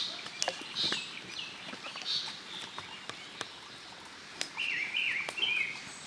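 Small birds singing: a few high whistled notes early on, then a quick warbling, chirping phrase about four and a half seconds in. Short sharp taps are heard here and there.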